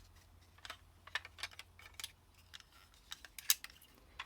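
Small toys being handled and set down, giving a scatter of light, irregular clicks and taps, the sharpest about three and a half seconds in.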